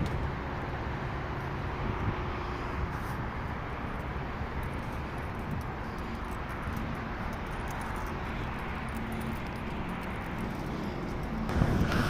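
Blower of a 25-ton Trane packaged air-conditioning unit's air handler running steadily, a broad even whoosh of moving air with a faint hum. It grows louder near the end.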